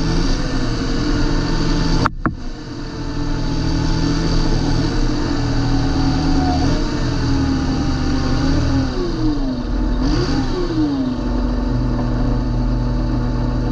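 John Deere 8320 tractor's six-cylinder diesel engine running steadily under power. A brief break comes about two seconds in, and about ten seconds in the engine note dips and rises twice in quick succession.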